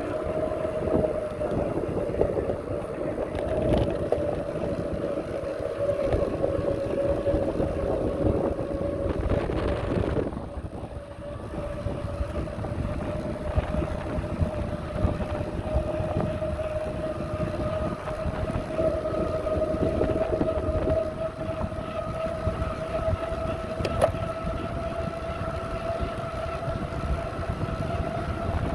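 Riding noise of a bicycle on a path: wind rumbling on the microphone and tyre noise, with a steady whine throughout that eases briefly about ten seconds in.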